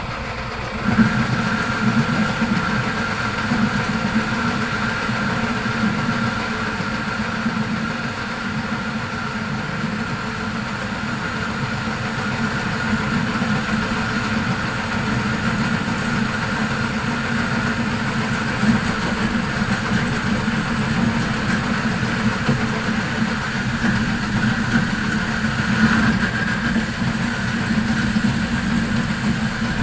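Old Myford Super 7B lathe running steadily, growing louder about a second in, with a steady high-pitched tone over the motor and gear noise.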